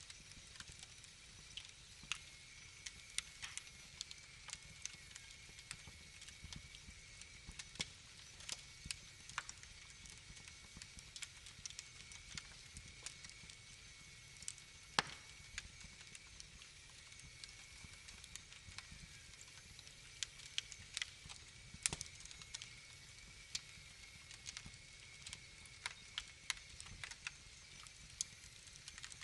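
Wood fire crackling in a fireplace: irregular pops and snaps over a low, steady hiss.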